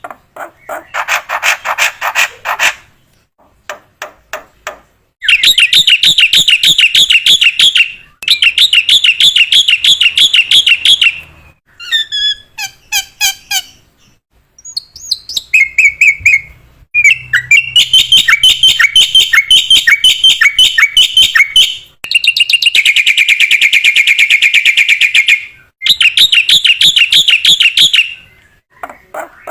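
Black-winged myna (jalak putih) singing loudly in phrases of rapid repeated notes a few seconds long, separated by short pauses, with one long fast trill in the later part.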